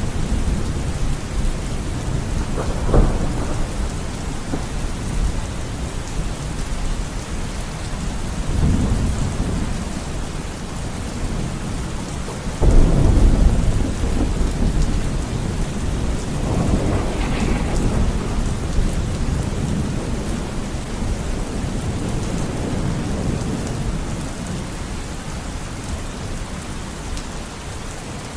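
Steady heavy rain with rolling thunder: a sharp crack about three seconds in, and a sudden loud peal of thunder about twelve seconds in that rumbles on for several seconds.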